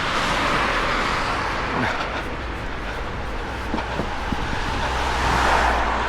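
Street traffic: cars passing with tyre and engine noise that swells as one goes by at the start and another near the end, over a steady low wind rumble on the microphone.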